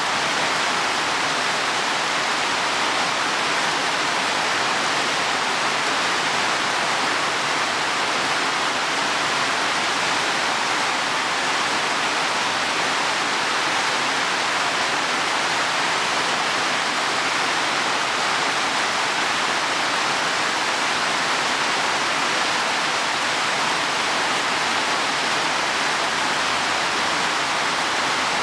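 Heavy rain falling steadily on leaves and soil, an even unbroken hiss.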